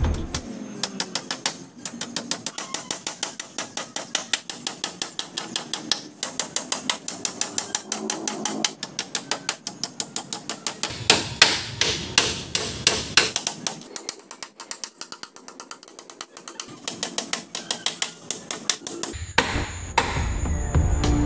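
Hammer driving nails into wood: long runs of quick, evenly paced blows, broken by a few short pauses.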